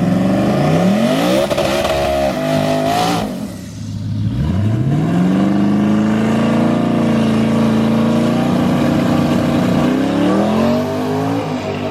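Drag car engine at full throttle, its pitch climbing in steps through gear changes; about three and a half seconds in the sound drops away briefly, then another engine pull rises and holds a steady high note before climbing again near the end.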